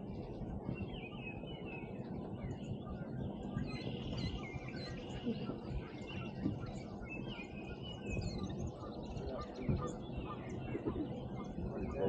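Several songbirds chirping and singing in short, overlapping phrases over a steady low background rumble.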